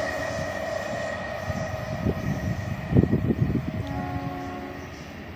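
MEMU passenger train running away down the line, its sound fading. A steady high tone dies away early on, a cluster of low thuds about three seconds in is the loudest moment, and a faint tone of several pitches sounds near the end.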